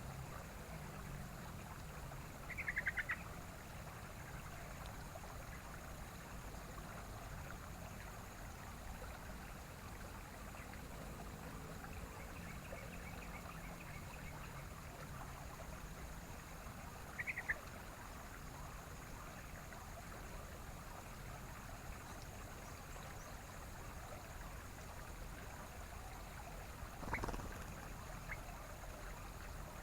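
Yellow-vented bulbul (trucukan) giving short bursts of quick chattering calls, twice about fifteen seconds apart and once more near the end, over a steady rushing of water like a stream.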